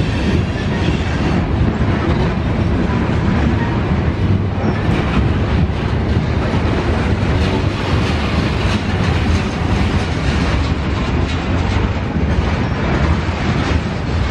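Freight train cars rolling past, a steady loud rumble with wheels clacking over the rail joints.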